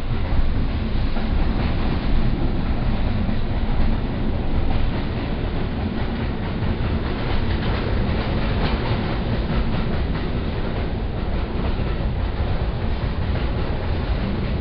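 Inside a double-deck passenger railway carriage running along the line: a steady rumble of wheels on the track, with a clatter of short clicks over the rails.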